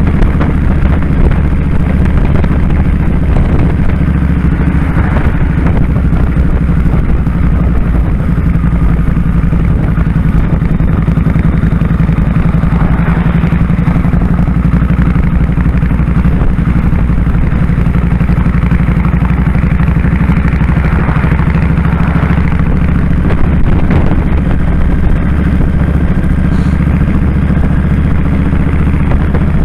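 2001 Kawasaki Drifter 1500's V-twin engine running steadily under way, with a steady rushing noise over it.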